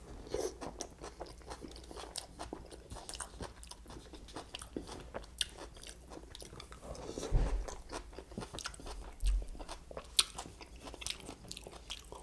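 Close-up chewing of crunchy coleslaw: many small wet crunches and mouth clicks, with two low thumps about seven and nine seconds in.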